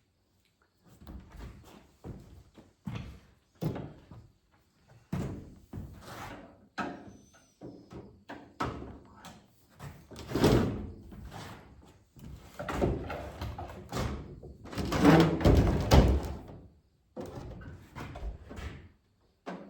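Irregular knocks, clunks and scraping from a microwave being handled and taken apart by hand, with the heaviest clunks about halfway through and again near three quarters of the way.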